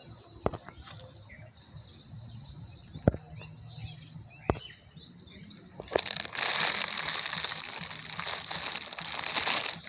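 Faint birds chirping with a few sharp clicks. About six seconds in, a loud rustling and crinkling starts and keeps going: a plastic bag and collected garbage being handled.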